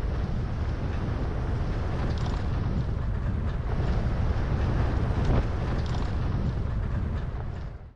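Vehicle on the move: a steady low road rumble with wind buffeting the microphone, fading out abruptly near the end.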